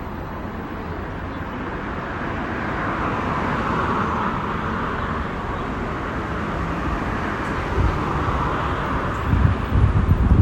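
Road traffic noise, a steady rushing that swells about four seconds in and again near eight seconds as vehicles pass. Wind buffets the microphone with low rumbling gusts near the end.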